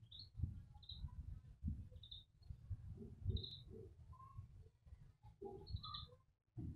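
Birds giving short, high chirps about once a second, over a faint low rumble.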